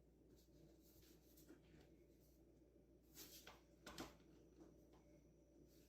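Near silence: room tone, with a few faint brief ticks or rustles a little past halfway.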